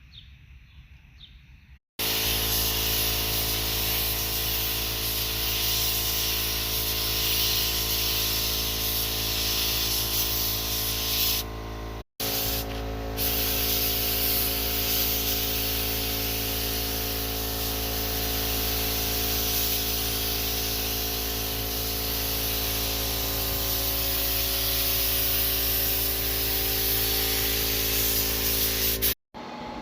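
A motor running at a steady speed with a loud hiss over it. It starts about two seconds in, breaks off for a moment about twelve seconds in, then runs again until just before the end.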